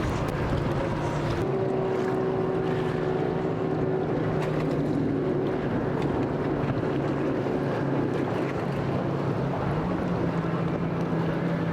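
Motorboat engines running steadily with a low drone, over a hiss of water and wind. The drone's pitch rises slightly near the end.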